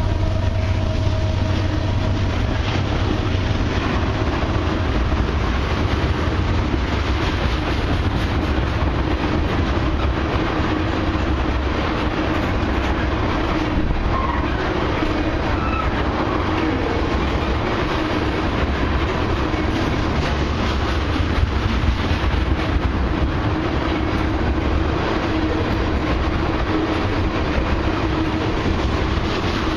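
A long loaded crude-oil freight train rolling steadily past at close range, its tank-car wheels clacking over the rail joints. The locomotive horn trails off in the first few seconds.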